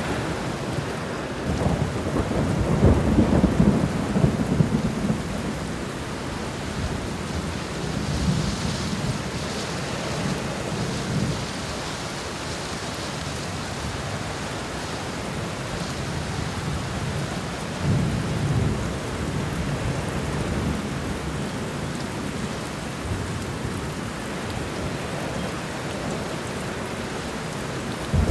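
Steady heavy rain with rolling thunder rumbling low beneath it, swelling loudest a few seconds in and rolling again more softly a couple of times later.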